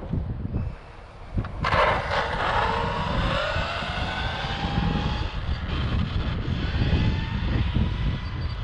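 Brushless electric motor and drivetrain of an Arrma Infraction RC speed-run truck whining, starting abruptly about two seconds in with a pitch that shifts and slowly rises, over wind buffeting the microphone.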